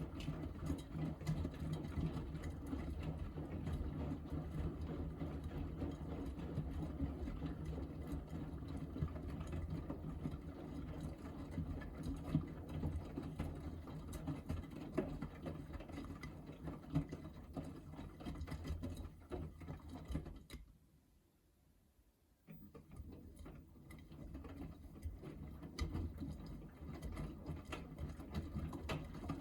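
Miele Navitronic W3985 washing machine in its 45° cotton main wash, the drum turning in intensive tumbles with a steady motor hum and laundry knocking about inside. About 20 seconds in the drum stops for a second and a half, then starts turning again.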